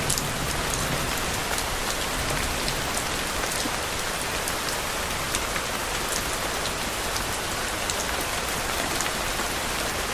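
Steady rain falling, a dense even hiss with scattered sharp ticks of single drops striking a surface.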